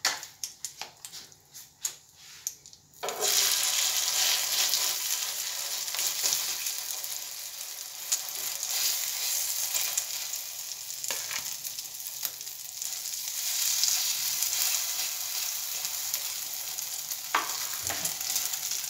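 A few light clicks, then about three seconds in a sudden loud sizzle as an egg-and-chicken burger patty goes into hot oil in a nonstick frying pan. It fries steadily, with the occasional knock and scrape of a metal spatula shaping it.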